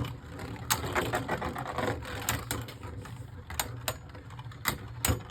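Beyblade Burst top spinning in a plastic stadium, a steady hum with irregular sharp clicks as it clatters against the stadium.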